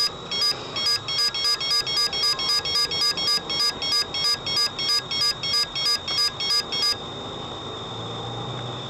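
Rapid electronic beeping, about three short pitched beeps a second, that stops about seven seconds in. A steady high whine over low cabin noise follows.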